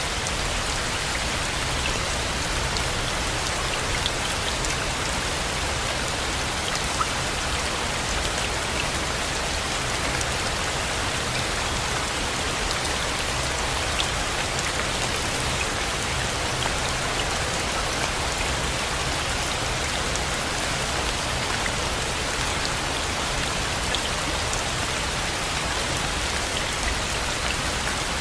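Steady, heavy rain falling, with individual drops ticking here and there over a dense even hiss.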